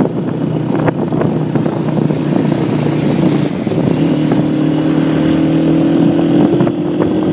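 Motorcycle engine running steadily while riding, with wind noise. About four seconds in, the engine note shifts and then climbs slowly.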